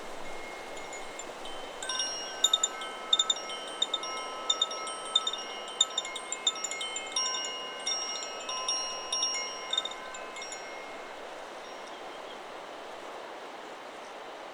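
Chakra Chimes 'Solar Plexus' wind chime stirred by the wind: from about two seconds in it is struck again and again, ringing several pitches at once. It stops being struck about ten seconds in and the tones die away. Under it is a steady hiss of wind in the trees.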